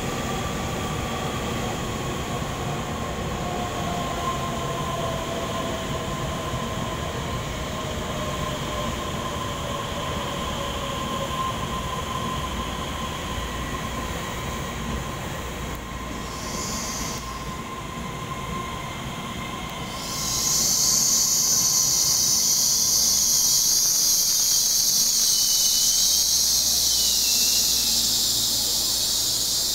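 TRA EMU3000 electric multiple unit rolling into an underground station, a steady rumble with whining tones that slowly fall in pitch as it slows. About 20 seconds in a loud, high hiss starts and holds until it cuts off suddenly near the end.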